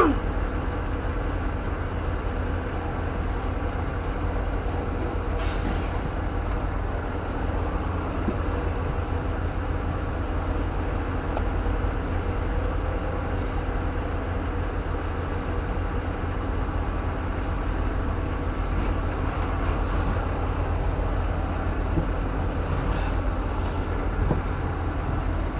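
Vehicle engine running steadily at idle, a low rumble, with one short loud sound falling in pitch right at the start.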